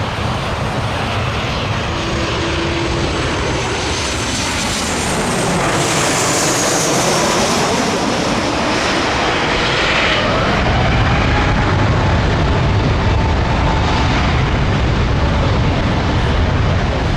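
Jet airliner passing low overhead: its engine whine sweeps down in pitch about six seconds in, and a low rumble grows stronger in the second half.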